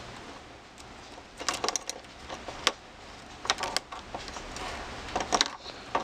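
Light clicks and taps of small plastic and metal RC truck parts being handled and fitted together while the steering assembly is put onto the front end, in a few short clusters.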